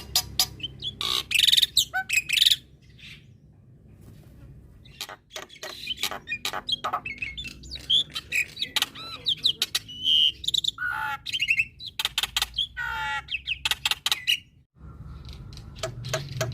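Black-winged myna (jalak putih) singing a varied song of rapid clicking notes and whistles, with a lull of about two seconds near the start.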